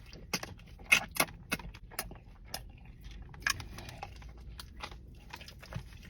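Irregular sharp crinkles and crunches from takeout food and its packaging being handled, loudest about a second in.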